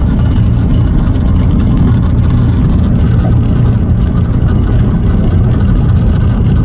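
Pulsar light aircraft's propeller engine running steadily, a loud, even drone.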